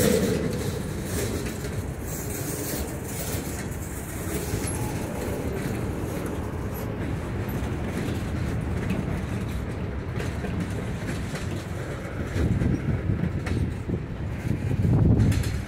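Norfolk Southern freight cars rolling past, their wheels rumbling steadily on the rails, growing louder near the start and again near the end.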